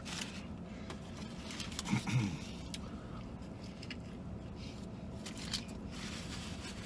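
A person biting into and chewing a fried chicken sandwich, soft and faint, over a steady low hum, with a brief low murmur about two seconds in.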